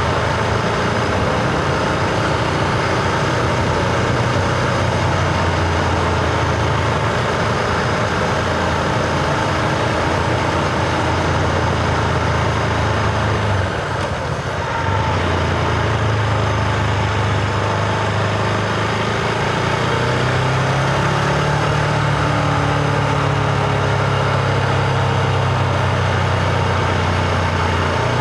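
Husqvarna Vitpilen 701's single-cylinder engine running under way on the road. About halfway through the engine note drops off briefly, then picks up again and changes pitch through the rest of the ride.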